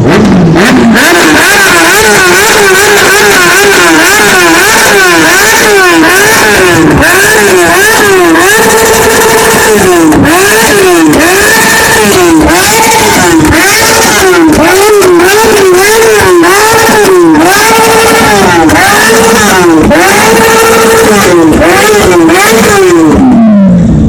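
Sport motorcycle engine revved hard again and again, very loud, its pitch climbing and falling back about once a second. Near the end the revs drop away toward idle.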